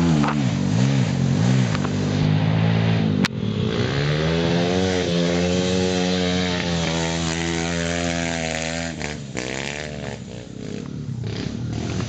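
Pit bike engine revving: the revs are blipped up and down a few times, then about four seconds in they climb and hold high and steady for several seconds before dropping off. A sharp click comes about three seconds in.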